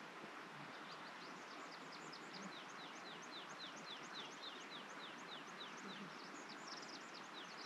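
A bird singing a long, fast series of short high notes, each sliding downward, several a second, over a steady faint background hiss.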